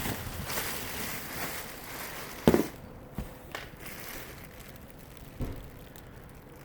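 Rustling and handling noises as dresses are moved and sorted, with a sharp knock about two and a half seconds in and a softer one near the end.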